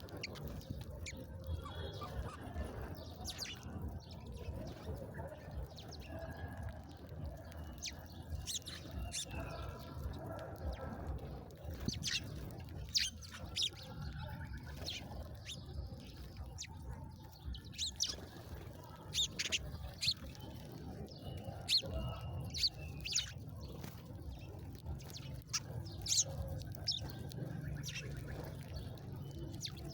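Small birds chirping: many short, high chirps at irregular intervals, busier from about twelve seconds in, over a steady low rumble.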